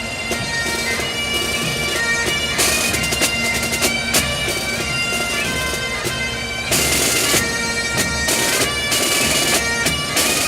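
Music led by bagpipes over a steady drone, with drums beating through it.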